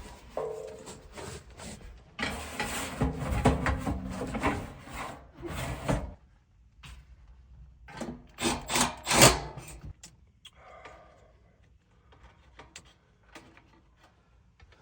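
Irregular scraping and rubbing of hands and tools at work, with a cluster of louder scrapes about eight to nine seconds in, then fainter, sparser handling noises.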